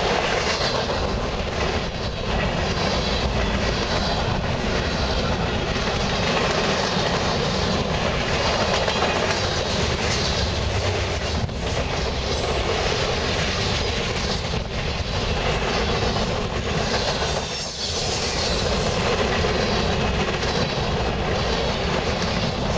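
Freight cars of a fast-moving Norfolk Southern freight train rolling past close by, their steel wheels clattering over the rail joints in a steady, repeating clickety-clack.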